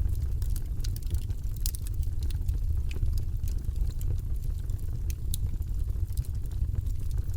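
Wood fire crackling in a fireplace: many scattered sharp pops and snaps over a steady low rumble.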